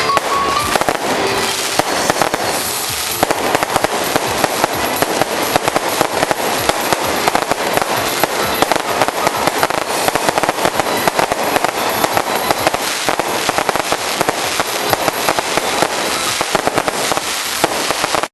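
Fireworks going off in a dense, continuous crackle of rapid pops.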